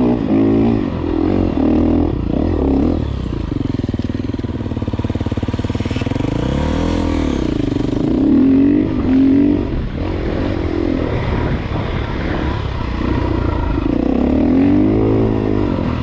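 Enduro dirt bike engine revving up and down again and again as it is ridden, the pitch rising and falling every second or two.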